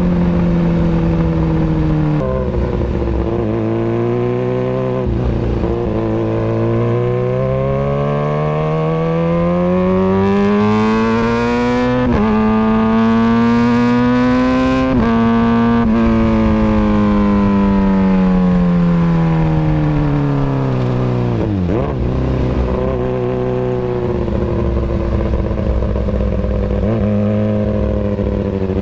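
Kawasaki Ninja ZX-636's inline-four engine through an Austin Racing exhaust, its pitch climbing slowly for about ten seconds, then falling back and levelling off.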